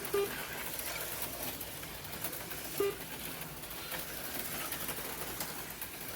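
HO-scale slot cars running on the track: a steady whir of their small electric motors and tyres, with two short low tones, one at the start and one about three seconds in.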